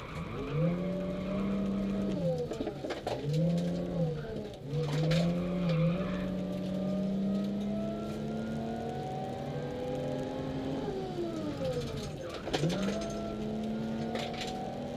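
Supercharged Lexus IS200 straight-six heard from inside the cabin under hard acceleration. It revs up and drops sharply in pitch several times at the automatic gearbox's shifts. From about six seconds in it makes one long steady climb in revs, eases off around eleven seconds, drops sharply near twelve, and climbs again.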